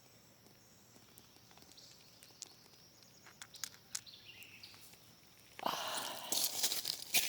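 Quiet outdoor stillness with a few faint ticks, then, about five and a half seconds in, a sudden stretch of rustling and crunching that continues to the end.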